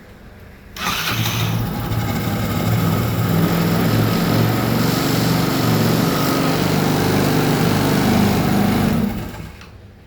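Motorcycle engine starting about a second in, running steadily for about eight seconds, then shut off near the end.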